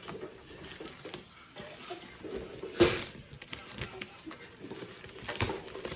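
Handling of a cardboard box and its packaging: scattered light clicks and rustles, with a sharp knock about three seconds in and another near the end.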